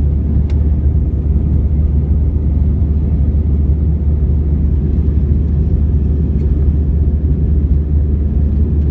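Steady low rumble of an Airbus A321 airliner in flight, its engines and airflow running evenly, with one brief click about half a second in.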